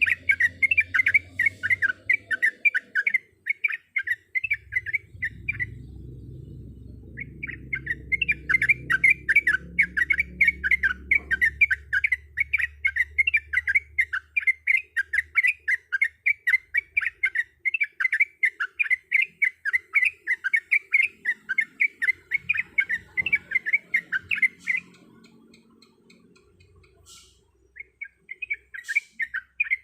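Yellow-vented bulbul (trucuk) singing in a fast run of short, repeated chattering notes, about four a second. The song breaks off twice, once early on and again near the end, then resumes.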